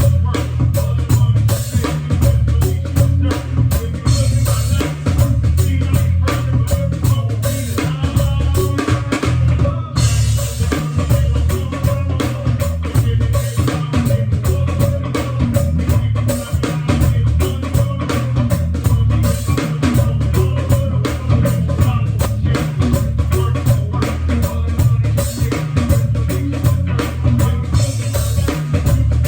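A live band playing: a drum kit keeps a steady beat with snare and bass drum over heavy bass.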